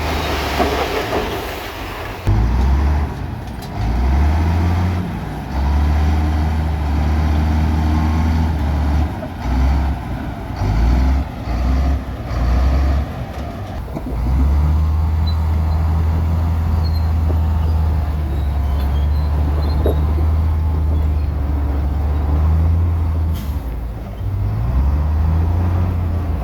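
Heavy diesel earthmoving machinery working. The engine's deep note repeatedly speeds up and drops back, then holds steady for several seconds. A hiss of air comes near the start.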